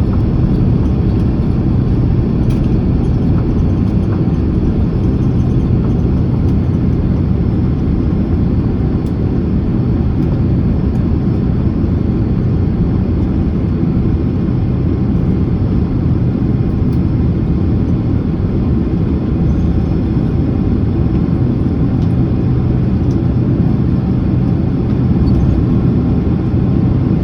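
Steady low rumble inside the cabin of a Boeing 767-300ER on the ground just after landing: engines running low and the airframe and wheels rolling on the pavement, with a faint steady hum beneath it.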